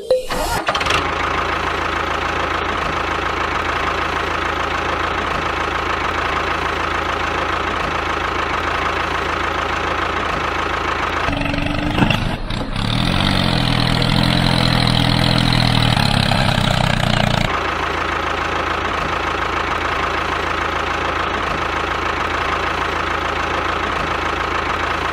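Small engine of a homemade miniature tractor-bulldozer running steadily, with a constant whine. For about six seconds in the middle it grows louder and deeper, as if working under load, then settles back to its even running.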